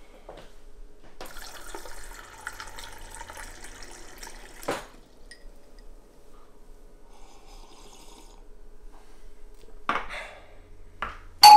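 Refrigerator door dispenser running water into a glass for about three and a half seconds, stopping with a click. Later a short knock, then a doorbell chime starts loudly near the end.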